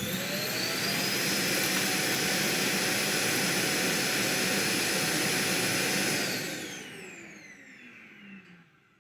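Roomba j7+ Clean Base auto-empty dock's suction motor emptying the robot's bin. It spins up with a rising whine, runs loud and steady for about six seconds, then winds down with falling whines.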